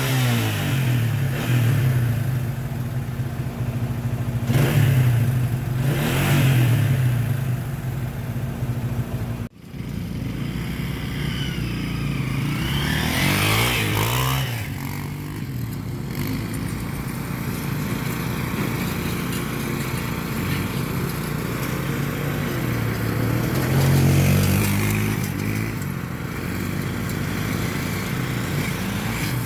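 Dirt bike engine running and being revved again and again, its pitch climbing and falling several times between steadier running. The sound drops out for a moment about nine seconds in.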